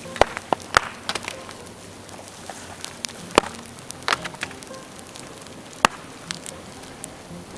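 Dry bamboo crackling and popping in a bonfire: sharp, irregular cracks and snaps, several close together in the first second and a half, then single loud pops a few seconds apart.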